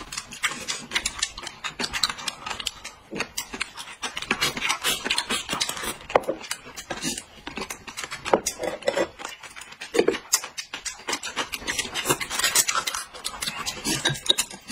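Close-up mukbang eating sounds: crunchy chewing of crisp pickled melon rind, with lip smacking and chopsticks clicking against plates, an irregular stream of small crunches and clicks.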